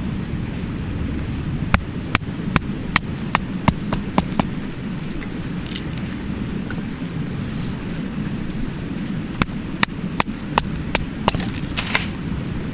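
Wood campfire crackling, with sharp single pops in two irregular runs and a couple of brief hisses, over the steady low rushing of a mountain stream.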